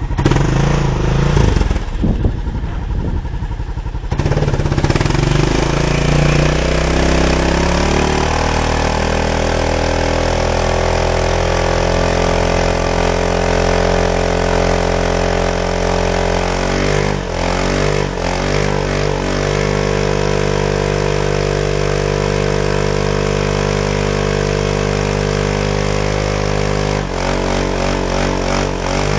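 The single-cylinder engine of a 1990 Kawasaki KL650 Tengai, revved hard and held at high revs to spin the rear tyre in a smoky burnout. It runs unevenly for a few seconds, climbs steadily in revs, then holds a sustained high note. The revs dip and recover a few times about two-thirds of the way in and shift again near the end.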